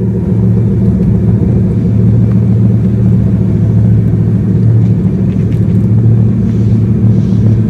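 Bugatti Veyron Grand Sport Vitesse's 8-litre W16 quad-turbo engine running steadily through a Quicksilver titanium exhaust, a loud, even, low drone with no revving.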